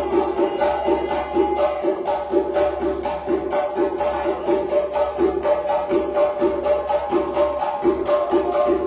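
West African djembe drumming: many fast hand strokes in a steady, dense rhythm.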